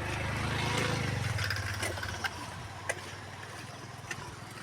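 A low motor hum that swells in the first second and then fades away, with a few faint clicks over it.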